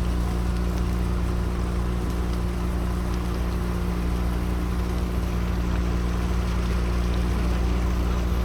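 An engine running steadily at a constant speed, with a constant low hum under a rough, even hiss.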